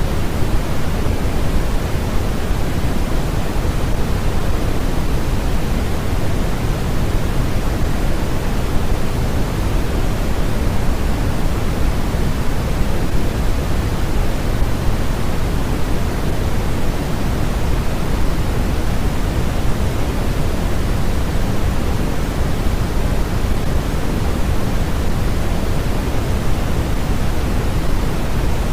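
Steady, unchanging noise track of the kind sold as white noise, with a deep, rushing character weighted toward the low end, like pink noise. It is a continuous hiss with no rhythm or events.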